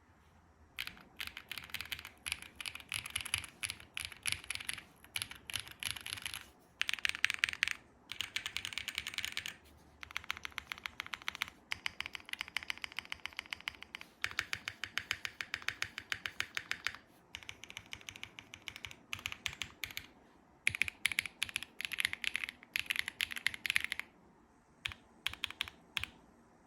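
Custom mechanical keyboard being typed on: lubed SOTC linear switches in an FR4-plated, foam-filled Space65 R3 with GMK keycaps. It gives rapid runs of keystrokes broken by brief pauses, with a few scattered keystrokes near the end.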